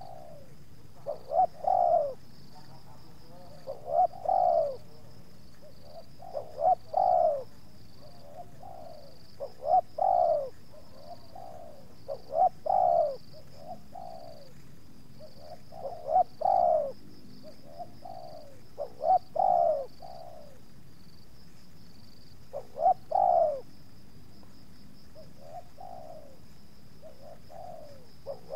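Spotted dove (tekukur) cooing over and over, about ten phrases every few seconds, each a couple of short notes and then a longer coo. A faint steady high buzz runs beneath it.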